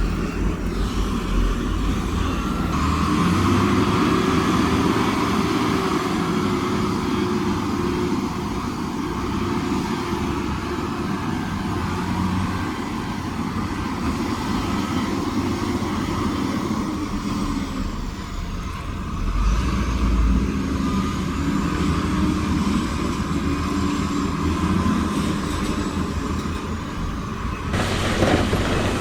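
Diesel engines of heavy earthmoving machinery running under load, the revs rising a few seconds in and easing off again. A short, heavier low rumble comes about two-thirds of the way through.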